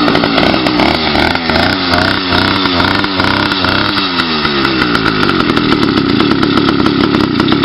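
80cc two-stroke motorized bicycle engine running loud with its exhaust baffle removed. The revs rise and fall in quick blips for about four seconds, then hold steady.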